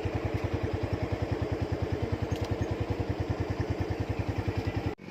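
Motorcycle engine running steadily with an even, rapid pulse of about ten beats a second. It cuts off suddenly near the end.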